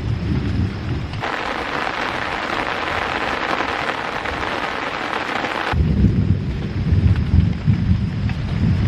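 Heavy rain hissing steadily over a deep, fluttering low rumble, as in a thunderstorm. About a second in, the rumble cuts out abruptly, leaving a brighter rain hiss. Near six seconds the rumble returns just as abruptly.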